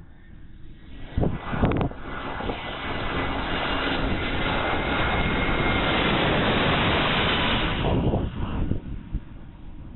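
Airliner's engines swelling as the aircraft passes close, holding loud and steady for several seconds, then fading near the end. A few gusts of strong wind thump on the microphone about a second in.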